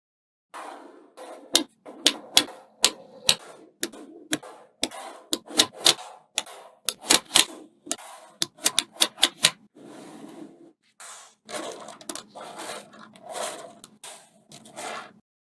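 Small coloured magnetic balls snapping together with sharp, irregular clicks, several a second at their densest, with softer scraping and rattling between them as they are handled.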